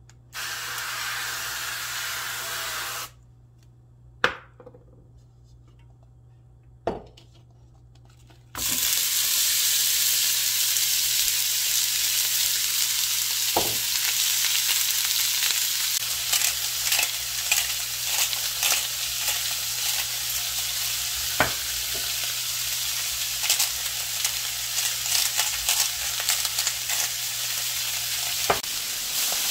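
Aerosol cooking oil spray hissing onto a nonstick frying pan for about three seconds. A couple of sharp knocks follow. Then beef chunks and vegetables sizzle steadily in the hot oil, with many small crackles and a few clicks.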